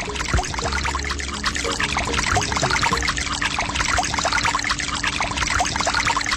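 Water pouring and splashing steadily, with a faint steady hum underneath.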